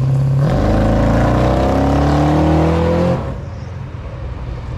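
Vehicle engine revving up in one long rising pull of about two and a half seconds, then cutting back abruptly.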